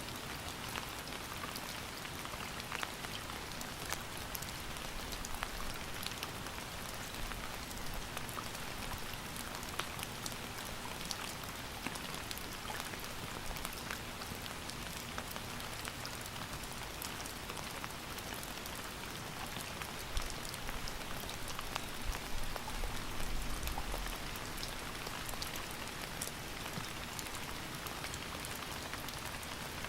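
Steady rain falling, a dense even hiss dotted with the ticks of individual drops hitting a surface. A few brief low rumbles come about two-thirds of the way through.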